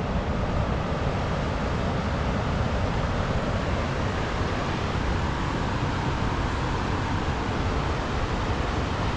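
Steady, unbroken rushing noise with a heavy low rumble and no distinct events.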